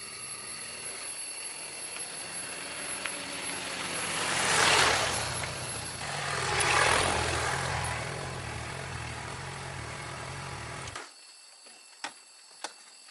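BMW F800GS motorcycle's parallel-twin engine running steadily, with two swelling whooshes about two seconds apart over it. The engine cuts off suddenly near the end, followed by two sharp clicks.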